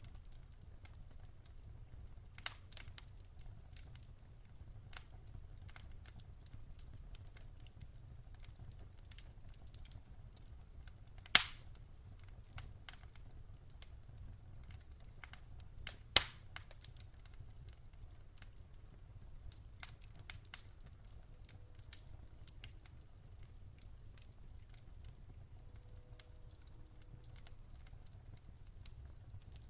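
Campfire crackling: scattered small snaps and ticks over a low steady rumble, with two loud sharp pops, about eleven seconds in and again about five seconds later.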